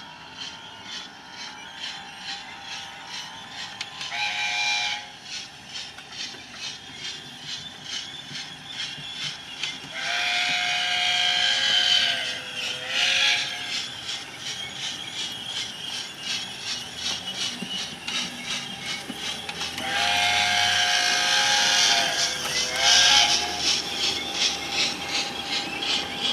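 OO gauge model steam locomotive's sound playing a chime whistle over a steady beat of about three clicks a second. There is one short whistle, then two long whistles, each followed by a shorter blast that slides down in pitch.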